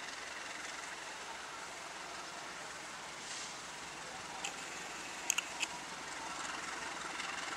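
Diesel locomotive hauling a passenger train as it pulls slowly out of the station, a steady running noise that grows a little louder toward the end. A few short, sharp high clicks come around the middle.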